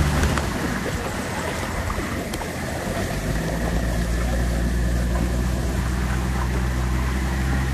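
A vehicle engine running with a low, steady hum under a continuous rushing of water, as from driving through floodwater in heavy rain. The engine hum drops back soon after the start and comes up again about three seconds in.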